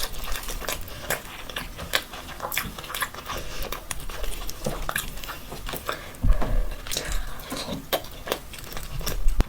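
A person eating mutton mandi: chewing and biting with many short, wet mouth clicks and smacks, several a second at an uneven pace.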